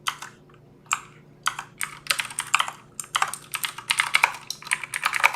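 Typing on a computer keyboard: a few separate keystrokes, then fast continuous typing from about a second and a half in.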